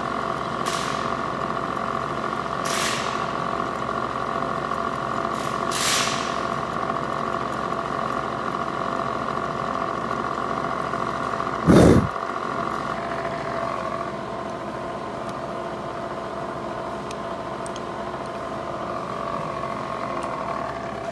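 Milling machine spindle running with a steady whine as a 1/8 inch end mill cuts the centre of a number 8 into a brass insert. A few short hissing scrapes come in the first few seconds, and a loud thump about twelve seconds in. The whine stops near the end.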